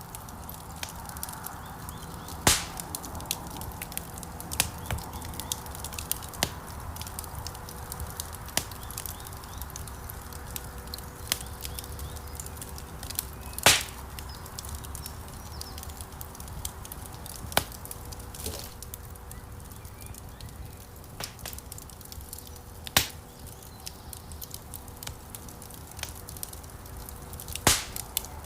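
Wood fire burning in a stone fireplace: a steady crackle of small snaps over a low rumble of flames, with four sharp louder pops, the loudest about 14 seconds in.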